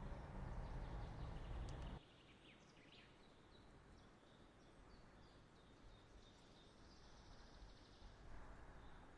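Faint outdoor ambience. For about two seconds there is a low steady rumble, which cuts off abruptly. After that, small birds chirp in short, high, scattered calls over a quiet hiss.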